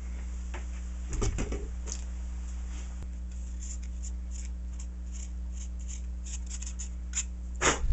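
Light clicks and rustles of small items being handled, over a steady low electrical hum, with a louder knock or rustle near the end.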